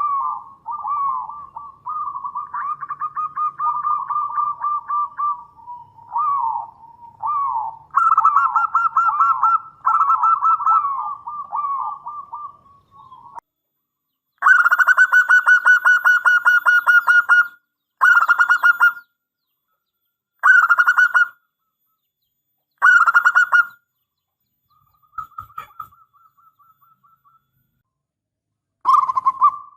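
Zebra doves (perkutut) cooing in fast, purring trilled phrases. For the first dozen seconds several calls overlap almost without a break. After a short pause, one louder call runs for about three seconds, followed by shorter phrases with gaps between them.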